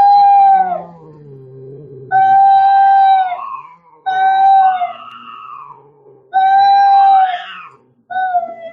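Cat yowling in a fight: five loud, held, high wails, the last cut short near the end, with a low growl between the first two.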